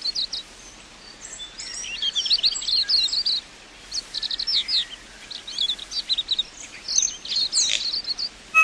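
Bird song: quick runs of high chirping notes in repeated phrases, with brief pauses between them.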